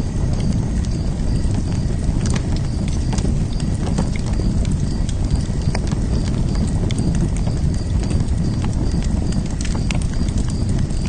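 Open fire crackling, with irregular sharp pops and snaps over a steady low rumble. A faint high chirp repeats at an even pace.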